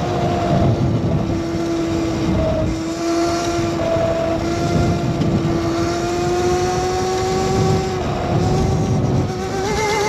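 Razor MX650 electric dirt bike's motor whining under way, its pitch holding and slowly climbing with speed, then dipping briefly about eight seconds in before rising again. Wind rushes over the camera microphone throughout.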